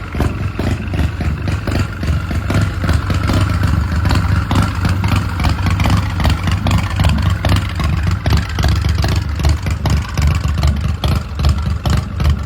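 Custom chopper's S&S 117 cubic inch V-twin engine running loud through a Vance & Hines exhaust, a rapid, steady train of exhaust pulses.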